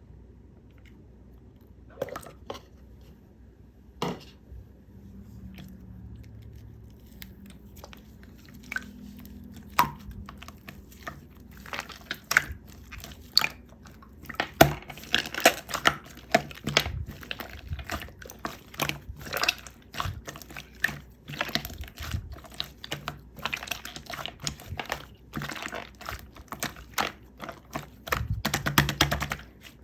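Hand-squished slime with chocolate-chip bits making wet clicking and crackling sounds. At first only a few scattered clicks, then dense and irregular from about eight seconds on.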